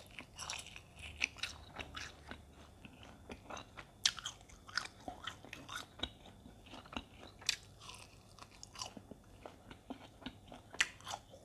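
Close-miked chewing of latiao, chewy spice-coated strips of fried tofu skin: soft, irregular short mouth clicks rather than crisp crunches.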